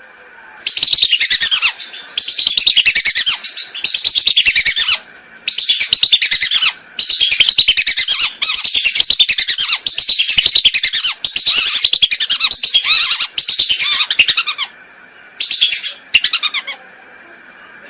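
Whistling duck (belibis) calls from a hunting lure recording. About a dozen loud bouts of rapid, shrill whistles, each about a second long and falling in pitch, with short pauses between them.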